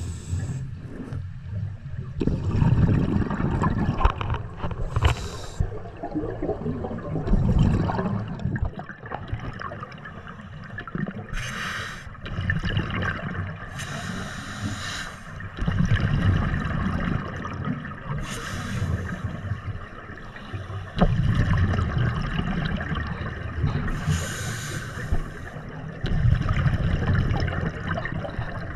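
Scuba diver breathing underwater through a regulator. Exhaled bubbles rush and gurgle past in bursts every few seconds, over a steady low rumble of water.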